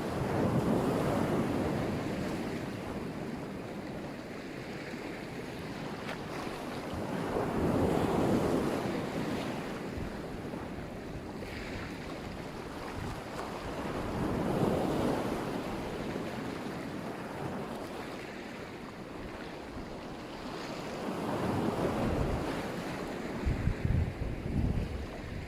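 Black Sea surf: waves breaking and washing onto the shore, surging about every seven seconds, four times, over a steady rush. Near the end, wind buffets the microphone with low thumps.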